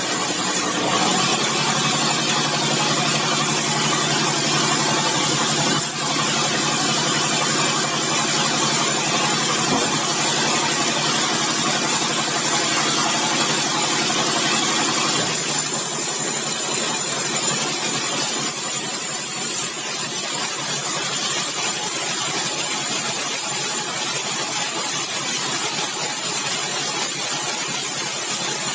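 Sawmill machinery running steadily with a continuous mechanical hum. About halfway through, the low hum thins out and a higher hiss comes up.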